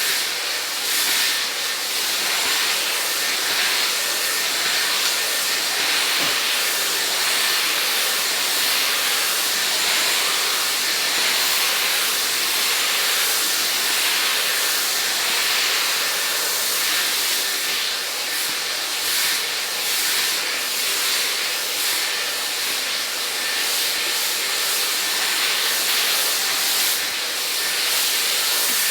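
Dyson hair dryer blowing steadily, a loud even rush of air with a faint high steady whine, while hair is being dried over a round brush.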